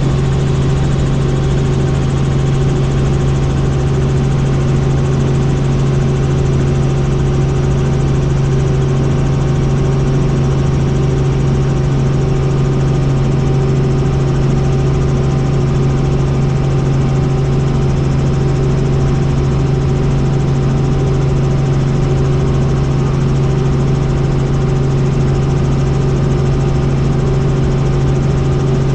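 Helicopter in flight: a steady, loud engine and rotor drone with a strong low hum that holds unchanged throughout.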